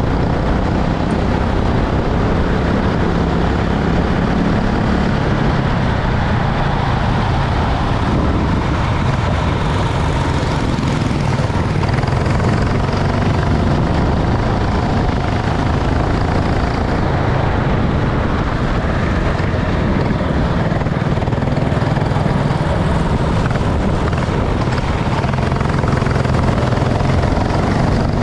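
Racing kart engines running steadily, with a continuous engine drone over a noisy hiss.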